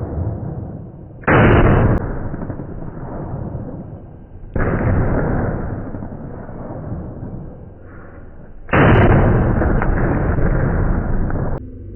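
Gunshots on a shooting range played back at about a fifth of normal speed, so each is a deep boom that trails off over a few seconds. There are three, about a second in, near five seconds and near nine seconds, and the last one is cut off sharply.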